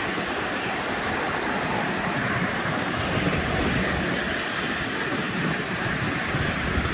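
Miniature railway train running on its track: a steady rumbling noise with no distinct tones.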